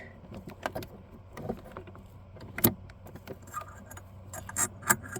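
Scattered light metallic clicks, clinks and knocks from hands working at a lawn tractor's engagement cable and tension spring, with the sharpest knock about two and a half seconds in and another near the end.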